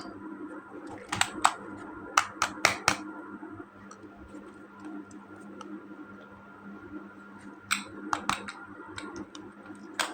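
Sharp plastic clicks and taps from handling toy pieces and packaging, in a few quick clusters a couple of seconds apart, over a faint steady hum.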